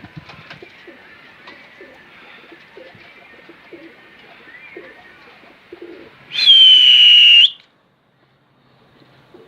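Domestic pigeons cooing softly, with faint chirps. About six seconds in comes a loud, high, steady whistle lasting just over a second, slightly falling in pitch, after which the sound cuts off suddenly.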